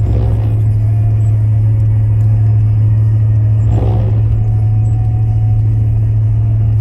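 Steady low rumble of a car driving, heard from inside the cabin, with two brief sounds breaking over it, one at the start and one about four seconds in.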